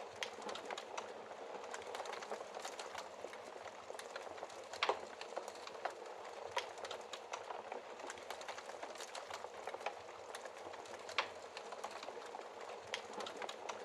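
Wood fire burning in a fireplace: a steady soft hiss with frequent sharp crackles and pops, the loudest pops about five seconds in and again about eleven seconds in.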